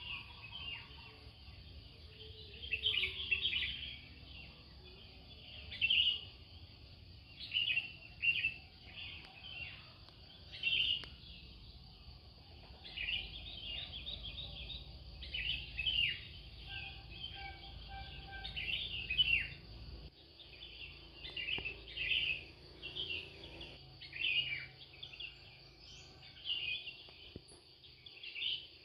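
Small songbirds chirping and trilling, short high calls coming every second or so throughout. A low background rumble fades out about two-thirds of the way through.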